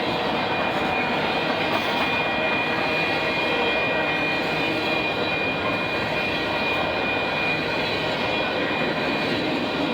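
Union Pacific grain train rolling past: a steady rumble of wheels on rail with a thin, steady high ring over it.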